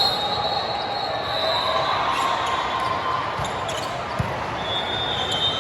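Volleyball match in a gym: sneakers squeaking on the court floor near the start and again near the end, with one ball thud about four seconds in, over steady spectator chatter.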